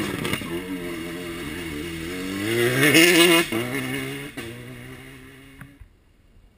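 Rally car engine under hard acceleration passing by, its pitch climbing to the loudest point about three seconds in, then dropping and fading, with a few sharp cracks. The sound cuts off abruptly near the end.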